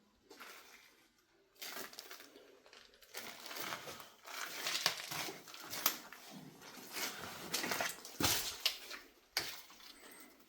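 Irregular rustling and crunching, broken by scattered sharp clicks and knocks.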